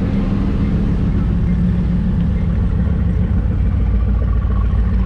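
Car engines running with a steady, deep sound, as cars arrive at a car meet.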